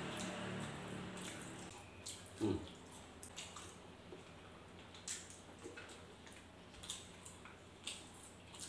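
Close-up eating sounds: wet chewing and mouth clicks, with a louder smack about two and a half seconds in, from rice and food eaten by hand. A held low tone fades out over the first second or two.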